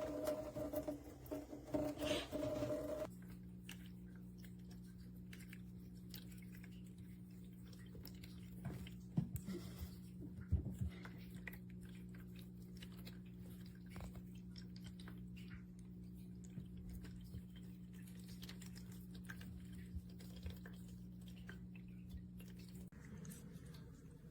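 Electric cat water-fountain pump humming steadily, with scattered small clicks and a few louder taps near the middle. For the first three seconds the hum is louder and higher before an abrupt change to a quieter, lower one, which is the constant noise a reviewer complains of in this fountain.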